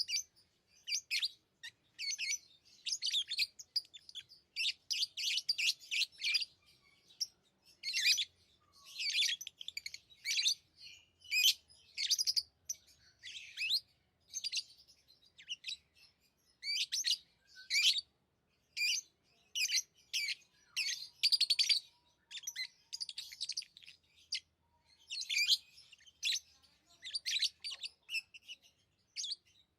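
Pet lovebirds chirping: runs of short, high-pitched chirps, several a second, broken by brief pauses.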